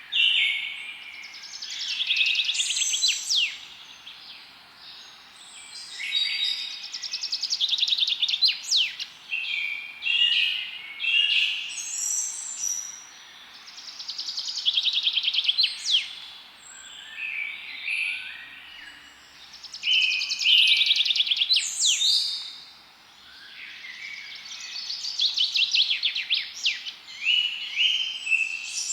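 Songbirds singing: phrases of rapid trills and short sharp notes, repeated every few seconds, over a faint steady background hiss.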